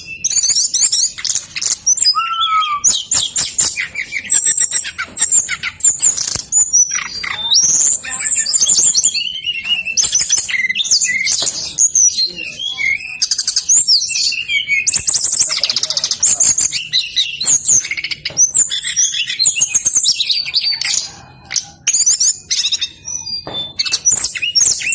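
Brown-chested jungle flycatcher singing insistently: a fast, varied run of high-pitched warbled phrases with almost no pause, broken by a short lull near the end.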